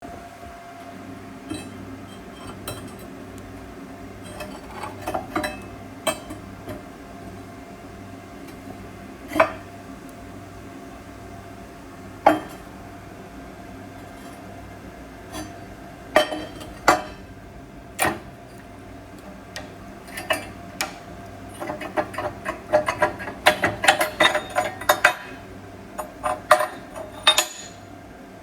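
Sharp metallic clinks and taps, scattered at first and then quick and clustered near the end, over a steady machine hum in a metal shop.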